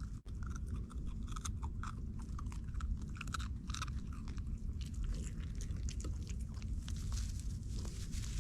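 A dog crunching and chewing dry cheese-ball dog treats, in quick irregular crunches, over a steady low rumble.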